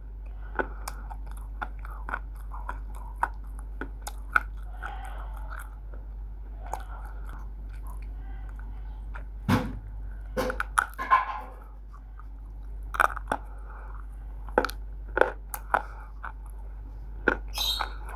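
A person biting and chewing roasted multani mitti (fuller's earth clay), with sharp crunches at irregular intervals over a steady low hum.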